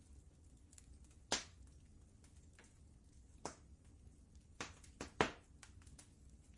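Wood fire crackling in a fireplace: small scattered crackles and about five sharper pops at irregular times, the loudest about five seconds in, over a faint low rumble.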